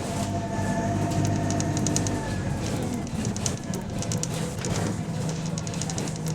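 Bus engine running, its low hum easing off about two seconds in and building again near the end. Through it come short runs of rapid high ticking, typical of the chuffing of an exhaust leak.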